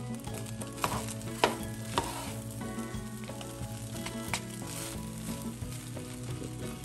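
Fried rice sizzling in a nonstick pot while a plastic spatula stirs and scrapes through it, with a few sharp clicks of the utensils against the pot in the first half.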